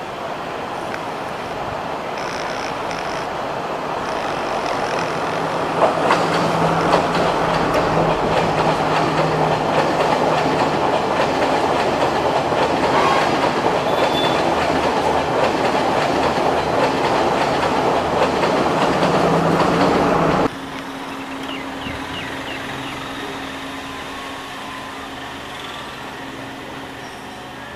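Sri Lankan Class S14 diesel multiple unit passing close by: its diesel engine running and its wheels clacking over the rail joints and points, growing louder as the coaches go past. About three-quarters of the way through, the sound cuts off abruptly to a quieter, steady engine hum of another S14 set approaching.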